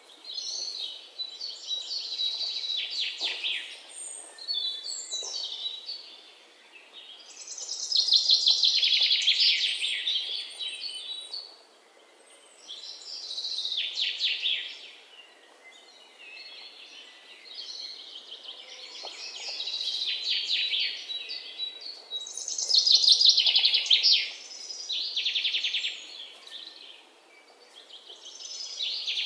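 Songbird singing high-pitched phrases of rapid trilled notes, each lasting one to three seconds, with short pauses between them.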